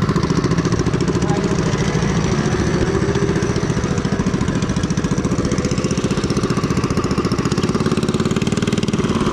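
Small engine running steadily at an even speed, with a rapid regular firing beat.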